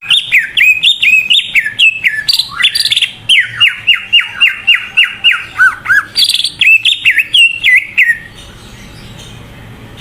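Cucak ijo (leafbird) singing a loud, varied song of sharp down-slurred whistled notes, with a fast run of repeated notes in the middle. The song starts abruptly and stops about eight seconds in.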